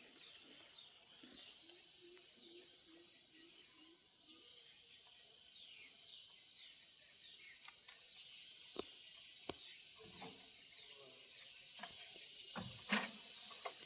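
Steady high-pitched insect buzz, with short falling chirps repeating over it. A few sharp knocks come about nine seconds in and again near the end, the loudest a double knock just before the end.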